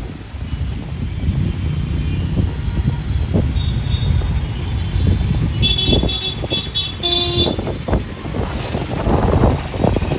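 Busy city road traffic: a steady rumble of engines and tyres, with short bursts of vehicle horns honking about six seconds in and a lower horn sounding just after.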